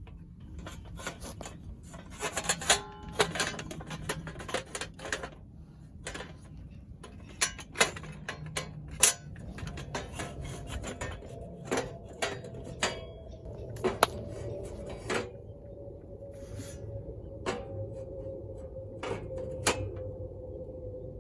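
Metal being handled, most likely the parts of a steel campfire stand: scattered clinks, knocks and scraping at irregular intervals. A faint steady hum comes in about halfway through and sinks slowly in pitch.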